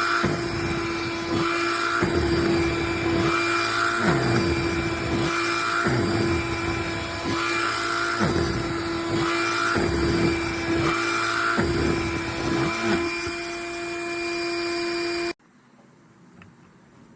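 Cordless handheld vacuum running steadily, its sound swelling and fading about every second and a half as it works. It cuts off suddenly near the end.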